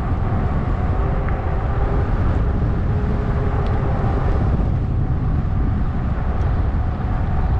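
Steady low rumble of wind on the microphone and 20-inch fat tyres rolling on a trail while a Zota Zephyr e-bike is ridden, with a faint steady hum running under it.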